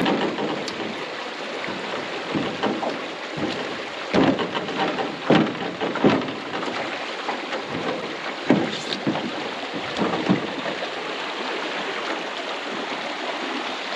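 Water rushing through a river log jam, with irregular splashes and knocks as a 17-foot Alumicraft aluminum canoe is walked over the jam.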